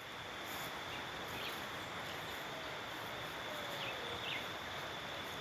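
Outdoor ambience: a steady high-pitched insect tone over a soft hiss, with a few faint, short bird chirps.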